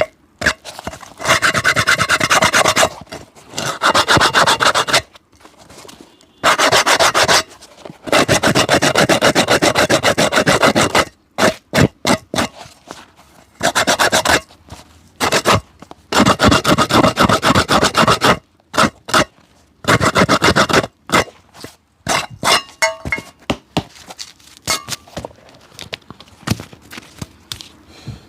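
Rapid back-and-forth scrubbing strokes of a tool rubbing on a shoe, in bursts of one to three seconds with short pauses. In the last few seconds the strokes turn slower and separate.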